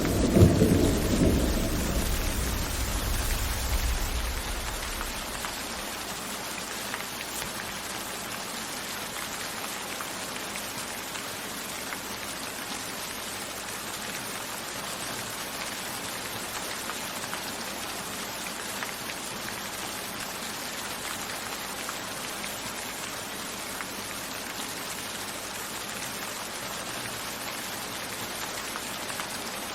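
Steady rain falling, with a rumble of thunder at the start that dies away over the first few seconds.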